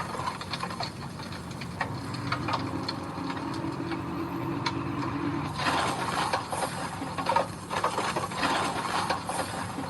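Mini bulldozer's diesel engine running steadily, with a whine for a few seconds. In the second half, metallic clanking and scraping of its tracks and blade on gravel.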